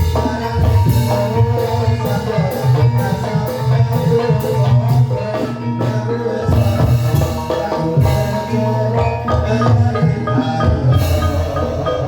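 Banyumasan gamelan music for ebeg dance: mallet-struck keyed instruments playing a busy pattern of ringing notes over steady drumming.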